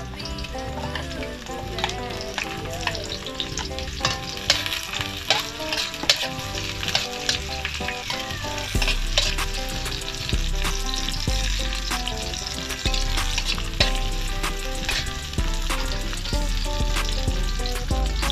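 Sliced onions and garlic sizzling as they fry in a steel wok, with a metal spatula scraping and clicking against the pan as they are stirred.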